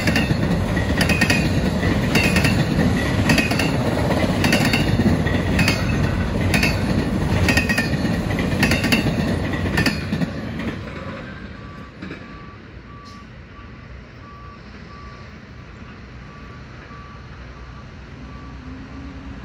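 Last cars of a Norfolk Southern freight train rolling past, a steady rumble with the wheels clattering over the rail about once a second, fading out about ten seconds in as the end of the train goes by. After that a faint beep repeats about once a second.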